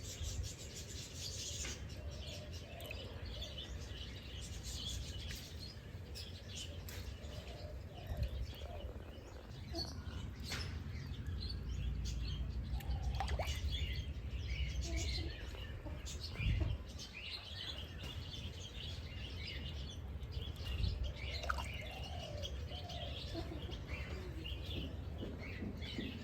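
Several birds chirping, with many short high calls overlapping throughout, over a steady low rumble.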